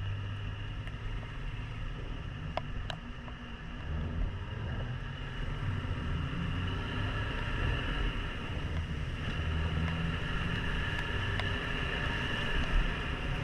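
Yamaha XTZ 150 Crosser's single-cylinder engine running under way, its note shifting with the throttle and picking up about four seconds in, over wind and the hiss of a wet road.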